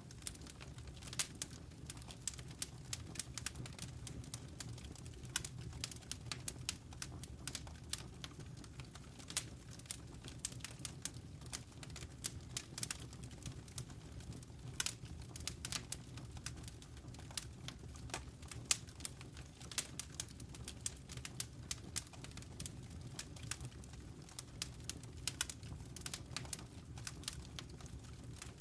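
Wood fire in a fireplace crackling: many irregular sharp pops and snaps over a steady low rumble of burning.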